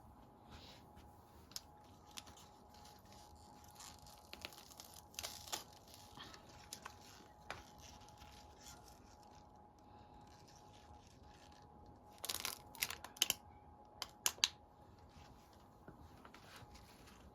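Scattered small clicks and rustles of something being handled, busiest for a couple of seconds about twelve seconds in.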